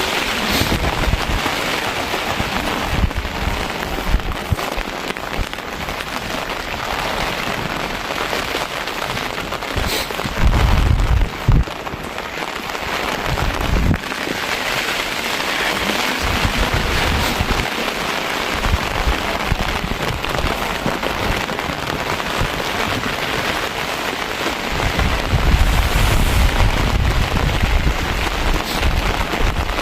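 Rain falling steadily and hard, a dense even hiss. Low rumbles come in about ten seconds in and again near the end.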